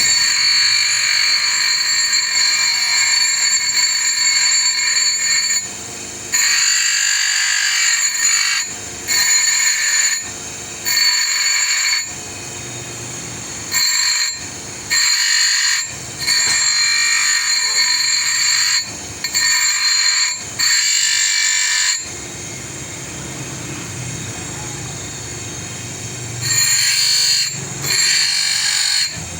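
Electric power tool with a high-pitched whine that comes in repeated loud spells of one to several seconds, dropping back to a lower steady level between them, with a longer lull about three quarters of the way through.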